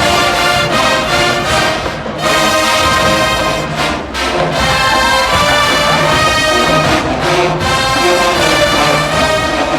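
HBCU show-style marching band playing a loud, brass-heavy tune, with short breaks in the playing about two and four seconds in.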